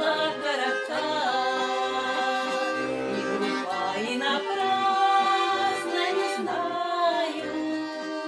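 Music: an accordion playing a slow folk song, held chords over pulsing bass notes, with voices singing along.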